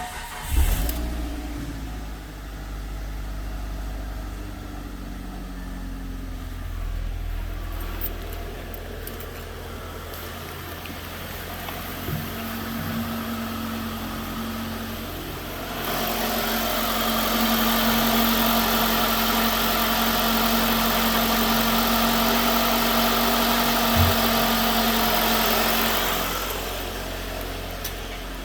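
2009 Mitsubishi Galant's 2.4-litre four-cylinder engine starting just after the beginning and then running steadily. From about 16 to 26 seconds in it runs louder and brighter at a steady pitch, then drops back.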